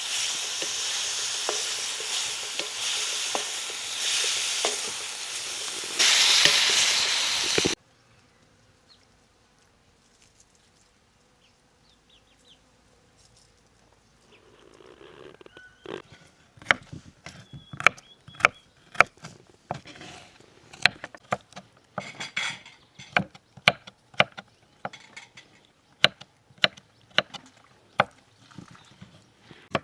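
Food sizzling as it fries in a pan, with stirring, which cuts off suddenly about eight seconds in. After a quiet gap, an irregular run of sharp clicks and knocks follows, like a utensil striking cookware.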